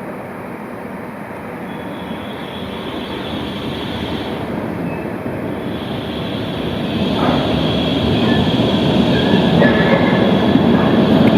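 A tram rolling on its rails and drawing closer, its running noise growing steadily louder, with a high, steady whine that sets in about two seconds in.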